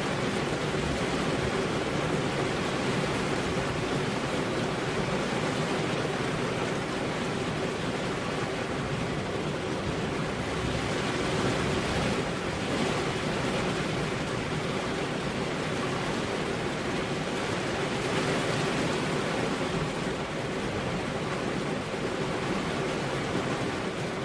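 Steady rain, a dense even hiss that rises and falls only slightly.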